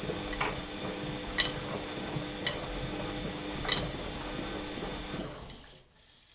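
Washing machine running with a steady hum and a few sharp clicks at uneven intervals, then winding down and stopping about five seconds in, leaving near silence.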